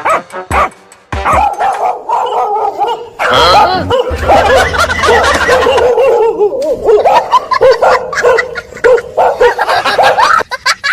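A dog barking and yipping in rapid, overlapping runs of short calls, with a low steady hum underneath for a couple of seconds in the middle.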